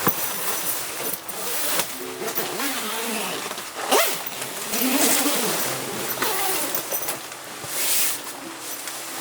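Heavy rain and gusting wind, rising and falling in waves, with a short surge near the middle and another near the end.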